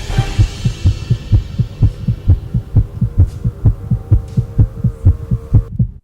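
Soundtrack pulse: low rhythmic thumps, about four a second, like a quickened heartbeat, under a steady held tone, cutting off abruptly near the end.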